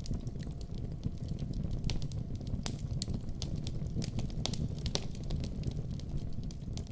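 Wood fire burning in a fireplace, a steady low rumble of flames with irregular sharp crackles and pops several times a second.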